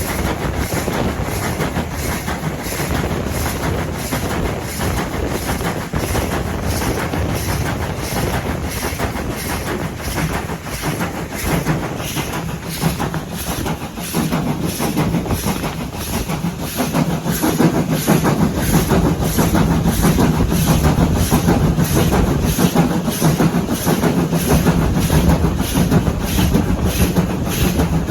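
Train running along the track, wheels clicking over the rail joints in a steady rhythm under continuous running noise. The low rumble grows louder about two thirds of the way through.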